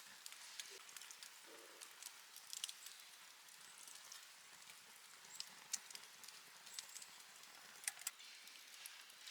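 Wood campfire crackling faintly, with scattered sharp, irregular pops over a low hiss.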